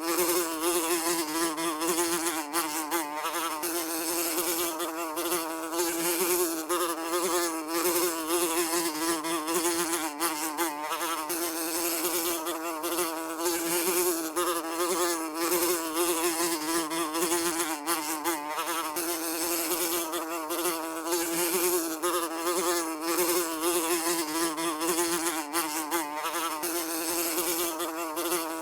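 A fly buzzing continuously, a steady drone with a wavering, slightly warbling pitch as it flies.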